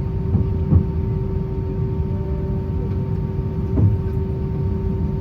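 Steady cabin noise inside an Airbus A320 before takeoff: a low rumble with a constant hum. A few brief soft knocks come through it, one under a second in and another near four seconds.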